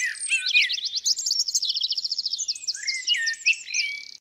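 Birds singing: rapid high chirps and trills, overlapping, which cut off abruptly at the end.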